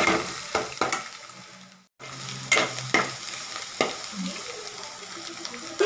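Metal spoon stirring and scraping scrambled egg, onion and green chillies frying in a metal pot: steady sizzling with sharp clicks of the spoon against the pot. The sound cuts out briefly about two seconds in.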